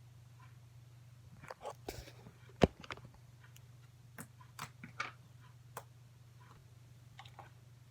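Slime being pressed and worked by hand, making scattered small clicks and pops, with one sharp louder pop about two and a half seconds in, over a low steady hum.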